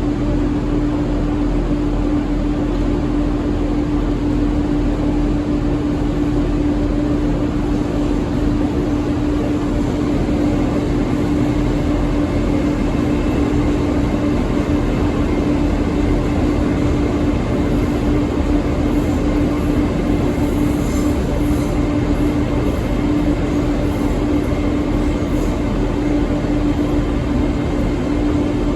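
Train standing with its engine or equipment running: a steady, unchanging hum with a strong drone, with faint high ticks around the middle.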